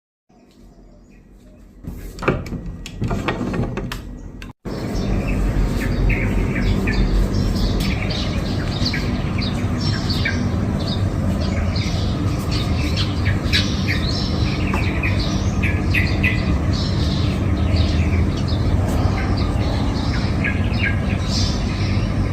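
Many small birds chirping and calling in short, rapid notes, over a steady low background rumble. A few sharp knocks and clicks come in the first few seconds before the birdsong begins.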